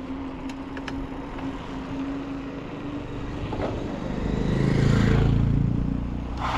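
A motor vehicle's engine passing close on the road, growing louder to a peak about five seconds in and then fading, over low wind rumble.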